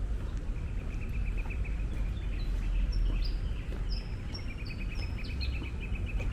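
A songbird singing: a fast trill, then a series of short whistled notes that each drop in pitch, over a steady low background rumble.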